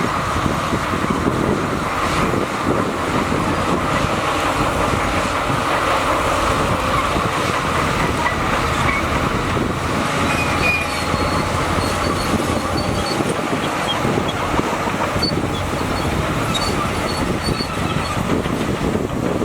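Crawler bulldozer working: its diesel engine runs steadily under load while its steel tracks clatter, with faint high squeals in the second half.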